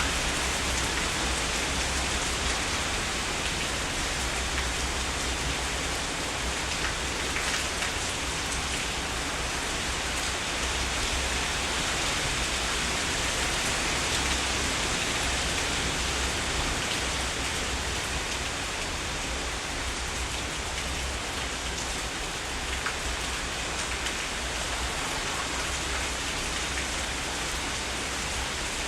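Heavy rain falling steadily, with scattered individual drops ticking through the constant hiss.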